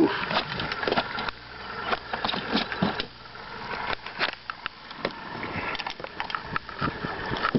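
Irregular knocking, rattling and clattering as a big fish is landed and handled in the boat.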